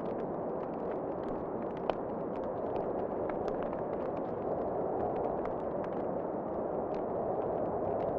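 Wood fire crackling with scattered small pops over a steady rushing wind, with one sharper pop about two seconds in.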